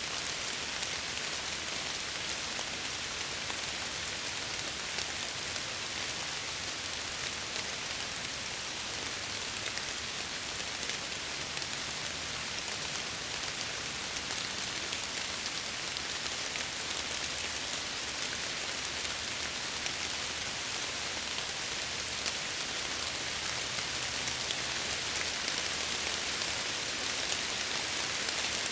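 Steady rain striking window glass: an even hiss with fine, dense drop ticks and no change in intensity.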